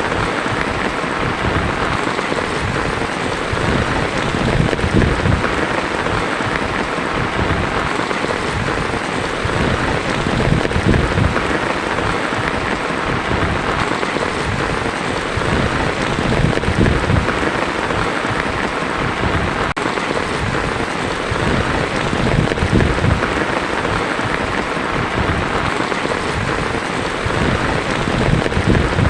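Heavy rain drumming steadily on a tin roof, with a low rumble that swells and fades.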